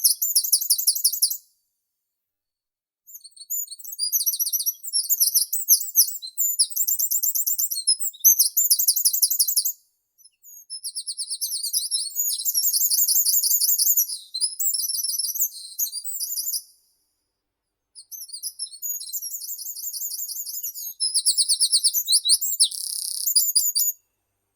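A small meadow songbird singing long, very high-pitched phrases of rapid repeated notes: four runs of song separated by short pauses.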